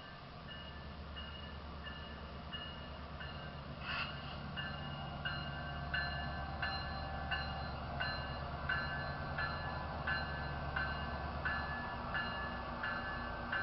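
Amtrak train pulling into a station: a low engine rumble growing louder, with a bell ringing steadily at about one and a half strokes a second and a sharp knock about four seconds in.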